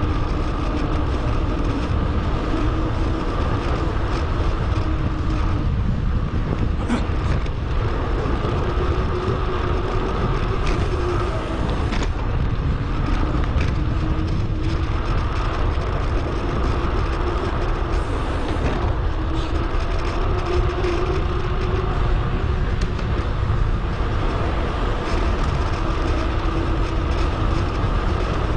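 Steady wind rush and tyre and road noise from a bicycle ride, recorded on a GoPro HERO 8 and played back sped up 2.5 times, with a faint wavering hum.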